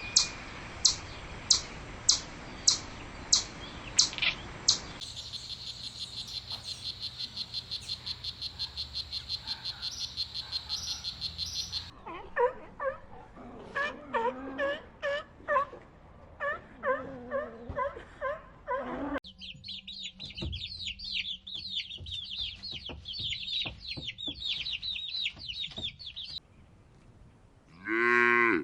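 A run of different animal sounds, one after another: sharp clicks about twice a second, then a fast pulsing high trill, then chicken clucking, then high twittering birdsong, and a cow starting to moo near the end.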